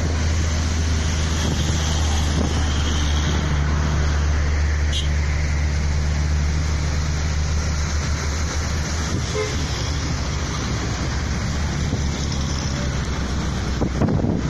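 Steady low roar of strong storm wind mixed with road traffic noise on a city street.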